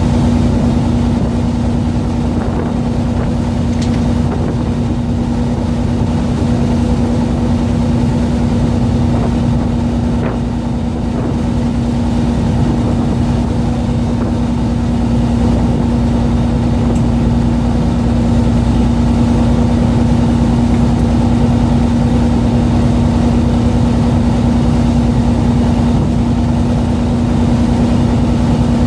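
Fishing boat's engine running at a steady speed: an even, unchanging drone with a constant hum.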